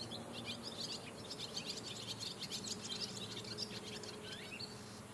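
Small birds chirping and twittering in quick runs of short, high notes, busiest in the middle, over a faint steady background.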